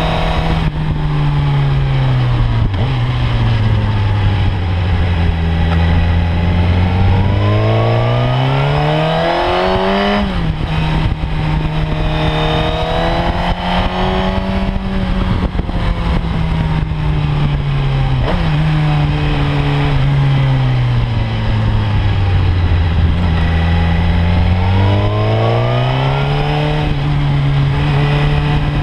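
Sport motorcycle engine heard from on board, the revs sinking low and climbing again several times as it slows for bends and accelerates out, with a sudden drop in pitch about a third of the way in, over a steady rush of wind and road noise.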